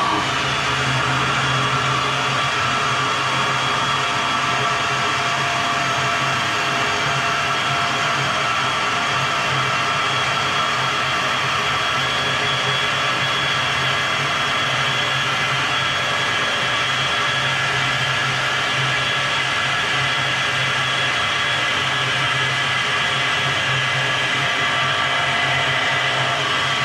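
Milwaukee portable bandsaw running steadily while cutting through metal, a continuous motor hum with the blade's high ringing tones on top.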